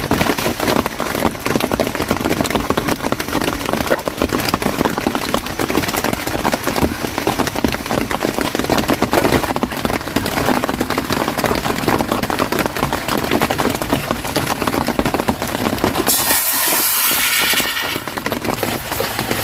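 Heavy rain drumming steadily on a tent, a dense crackling patter. About sixteen seconds in, a piece of meat laid into hot oil in a camping frying pan sets off a loud sizzling hiss that lasts about two seconds.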